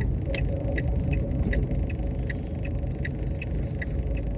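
Steady low rumble of a car heard from inside the cabin, with a short, sharp ticking repeating about two and a half times a second, like a turn-signal indicator.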